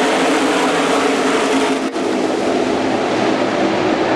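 A pack of NASCAR Truck Series race trucks running together, many V8 engines droning at once with overlapping pitches. There is a brief dip about two seconds in.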